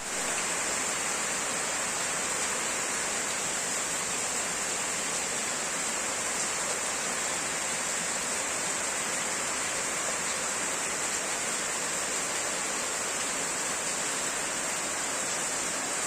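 Steady rain falling, an even unbroken hiss with a steady high-pitched edge on top.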